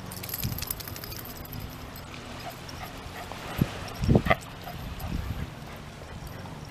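Shiba Inu dog giving a brief whimper about four seconds in, among a few short knocks over a low steady rumble.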